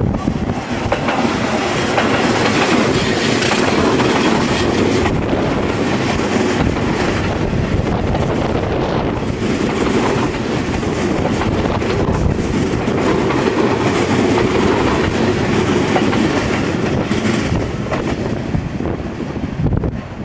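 Seibu 20000 series electric train passing close by: a steady rumble of steel wheels on the rails, with repeated clacks as the wheels run over rail joints.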